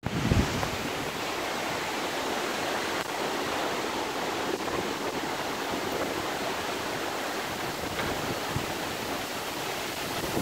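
Steady rain falling, an even hiss that holds level throughout, with a brief low thump right at the start.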